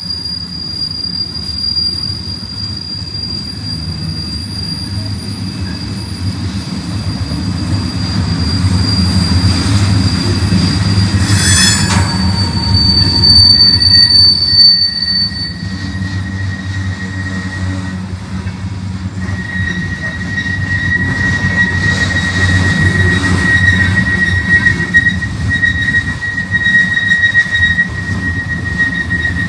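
Freight train rolling past with a steady low rumble of railcars and long high-pitched squeals from steel wheels on the rails. A short sharp clank comes about 11 seconds in.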